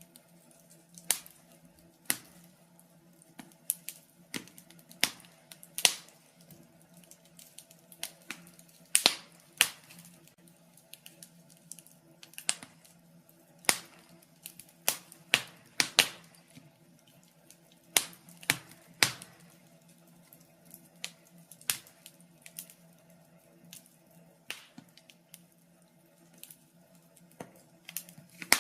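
Wood fire in a fireplace crackling, with sharp pops at uneven intervals, about one or two a second, over a faint steady hum.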